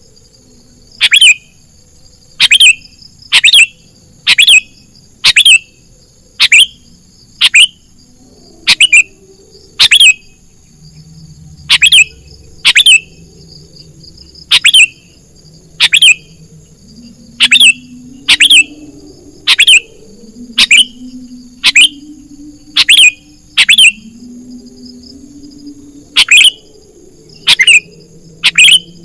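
Sooty-headed bulbul (kutilang) lure call: a short, sharp note sweeping quickly downward, repeated about once a second with a couple of longer pauses.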